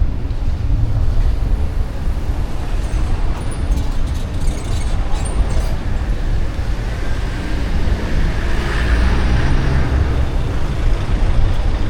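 Street traffic: a steady low engine rumble, swelling about eight to ten seconds in as a vehicle passes close.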